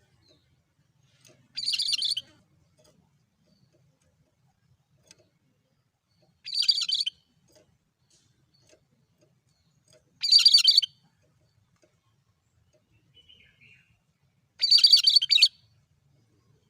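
Cucak kerinci songbird repeating the same short, high call four times, about four seconds apart, with a faint brief call before the last one: its monotonous song.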